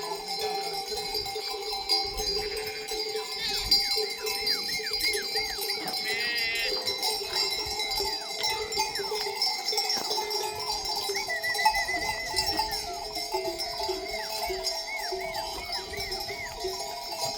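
Many livestock bells on a flock of sheep ringing and clanking together without pause, with short high chirps repeating over them.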